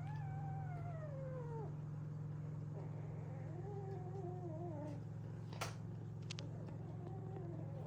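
Cat meowing: three drawn-out, wavering meows, the first sliding down in pitch. A sharp click comes a little past halfway, over a steady low hum.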